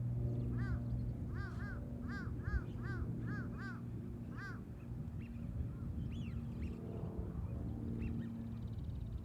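Birds calling: a quick series of about nine short, arched calls in the first half, then scattered fainter calls, over a steady low hum.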